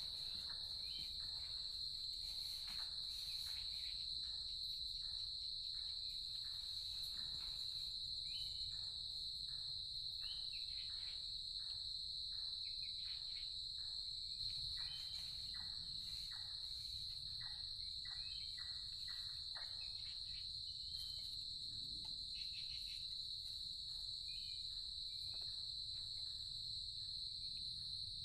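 Chorus of insects making a steady, unbroken high-pitched buzz, with faint scattered clicks throughout.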